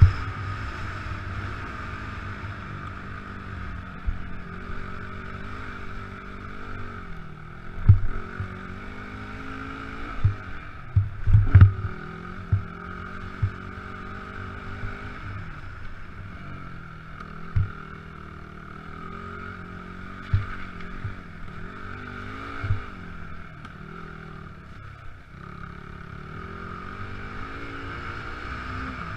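Motocross bike engine running, its pitch rising and falling with the throttle. Several short, sharp thumps are scattered through it, bunched in the middle.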